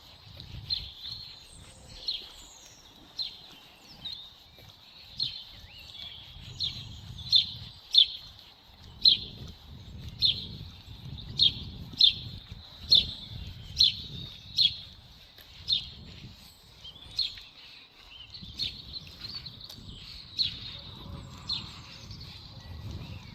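A songbird calling repeatedly, a sharp high chirp about once or twice a second, loudest around the middle.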